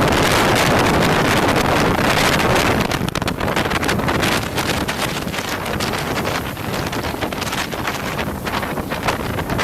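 Strong sea wind buffeting the microphone: a loud, rumbling rush with rapid flutters, strongest for the first three seconds, then easing a little.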